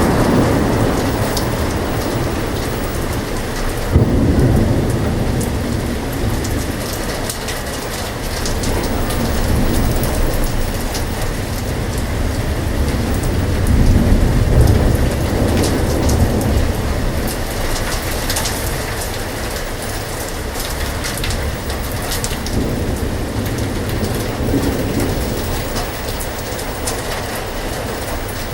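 Heavy rain pouring steadily, with low thunder rumbling underneath. The thunder swells several times, most sharply about four seconds in and again around the middle.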